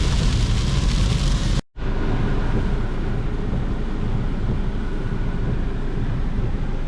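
Car road noise heard inside the cabin while driving: a steady rumble with a heavy hiss over it for the first second and a half, then a sudden cut to steadier, quieter road noise.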